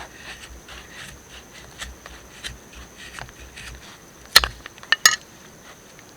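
Light knocks and rustling of wood being handled, then two sharp cracks less than a second apart. A steady high insect trill runs behind.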